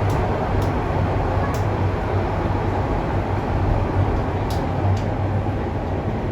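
Toronto subway train running, heard from inside the car: a steady rumble with a strong low hum, and a few sharp high clicks and ticks.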